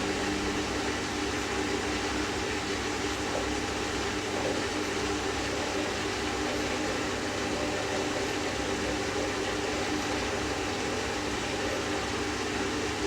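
Hoover DynamicNEXT washing machine running through its wool cycle between drain and rinse, a steady hum with an even noise and no change throughout.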